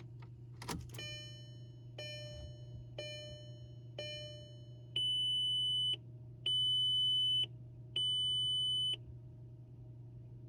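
Dashboard warning chimes of a VW ALH TDI with the key switched on before cranking: a click, then four pitched dings about a second apart that fade out, then three steady beeps about a second long each, over a faint steady hum.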